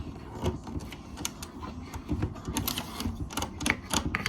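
Small plastic toy pieces and their packaging being handled: irregular clicks, taps and rattles, several a second.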